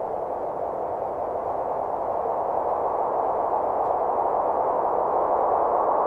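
A steady rushing noise with no distinct pitch, slowly growing louder.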